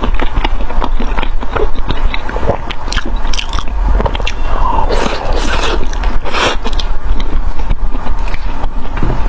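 Close-miked biting and chewing of crunchy food, a dense run of short, irregular crunches and crackles.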